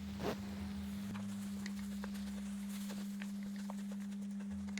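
A pan of rice and vegetables simmering in chicken stock and coconut cream, with scattered faint pops and ticks over a steady low hum.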